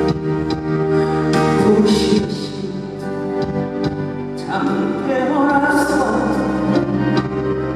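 Live band music with a singing voice over it, held notes and sliding melodic lines.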